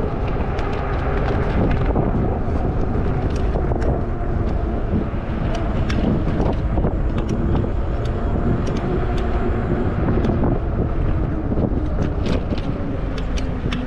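Steady rumble of wind and fat-tire road noise from an e-bike riding along at speed, picked up by a camera mounted on the bike, with scattered small clicks and rattles throughout.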